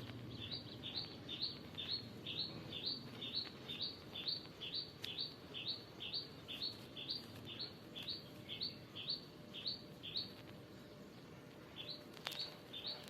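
A small songbird calling the same short, sharp, falling chirp over and over, about two a second; the calls stop about ten seconds in, then a few more come near the end.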